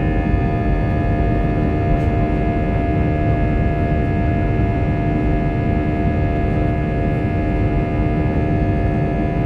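Airbus A320 jet engines running steadily: a dense low rumble with several high whining tones held at a constant pitch.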